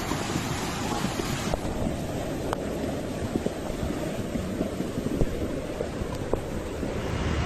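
Steady rushing of floodwater mixed with wind on the microphone, a noisy roar with a few scattered clicks; the sound turns duller about one and a half seconds in.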